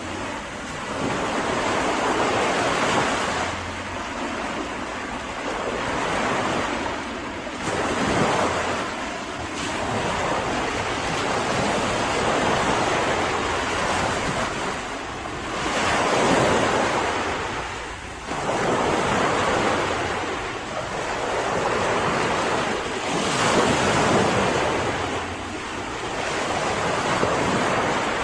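Mediterranean sea waves breaking and washing on a beach, the surf swelling and ebbing every few seconds. Wind buffets the microphone.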